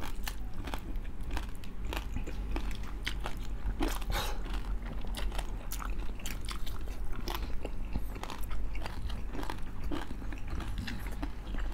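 Close-miked crunchy biting and chewing of crispy pata, deep-fried pork knuckle with crackling skin, with many irregular sharp crunches.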